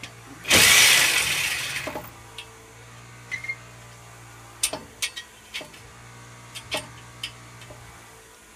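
A loud burst of noise about half a second in that fades over a second or so, then scattered sharp metallic clinks and knocks of tools and parts being handled under a car, over a steady low hum.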